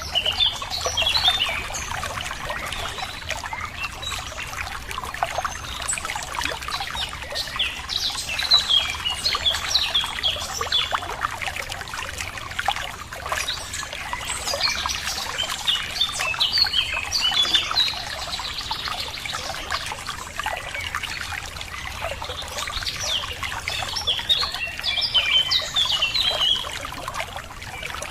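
Running water trickling steadily, like a small stream, with birds chirping over it in several spells of quick twittering.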